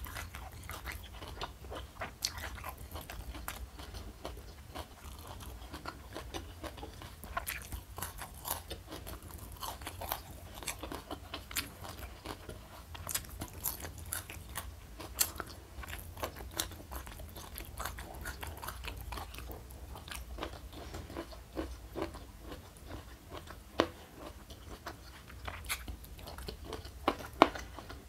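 A person chewing and crunching crispy fried food, with many short, irregular crackling bites throughout, over a steady low hum.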